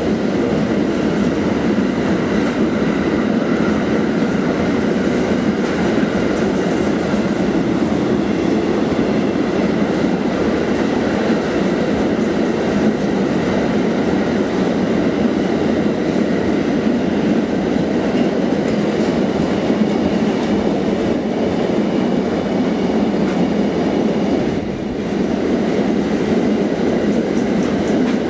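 Loaded double-deck car-carrier freight wagons running past, a steady loud rolling noise of steel wheels on the rails, with a short dip in loudness near the end.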